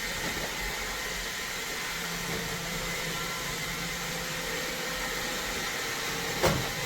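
iRobot Roomba 692 robot vacuum running with a steady whir and faint whine, with one sharp knock near the end.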